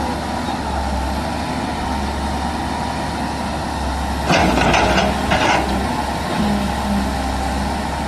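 Heavy diesel earth-moving machine engine running steadily, with two short louder noisy bursts about four and five seconds in.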